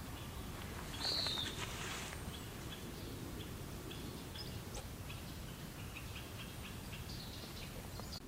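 Wild birds calling: one clear downward-slurred call about a second in, then scattered short high chirps, over a steady low background rumble.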